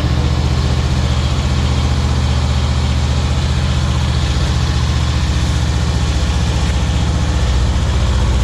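2023 Honda Rubicon 520 ATV's single-cylinder engine idling steadily shortly after a cold start in freezing weather.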